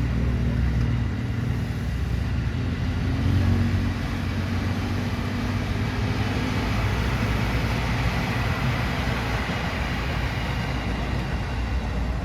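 Electric commuter train, an ex-JR 205 series multiple unit, passing: a steady rumble with running noise from the wheels, the higher hiss growing a little about eight seconds in.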